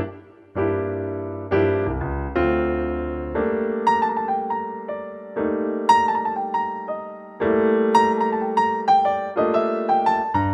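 Background piano music: a gentle melody of struck notes and sustained chords.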